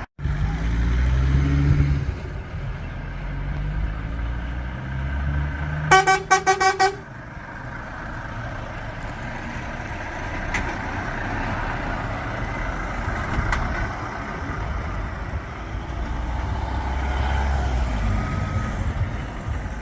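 Truck engine running with a low rumble as lorries arrive, and about six seconds in a horn gives a quick burst of about five short toots.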